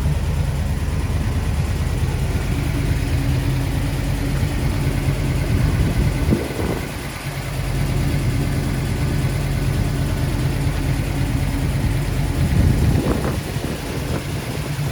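Custom-built 455 cubic inch Pontiac V8 with headers and dual exhaust idling steadily, with a brief dip in level about seven seconds in.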